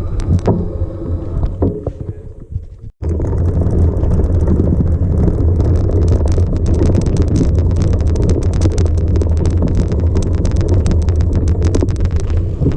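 Vehicle driving over a rough dirt track: a steady low rumble with constant rattling and knocking. It breaks off for a moment about three seconds in.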